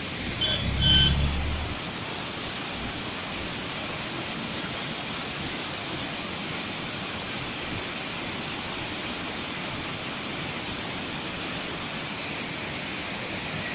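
Waterfall rushing as a steady, even roar of falling water. About a second in there is a short low hum with a couple of brief high beeps.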